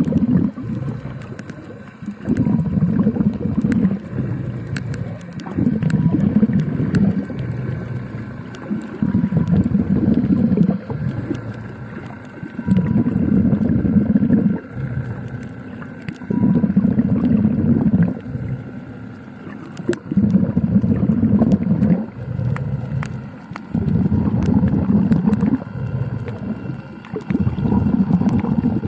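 Underwater sound of a swimmer's breathing, a low rush of breath and bubbles coming about every three to four seconds, over scattered crackling clicks and a faint steady hum.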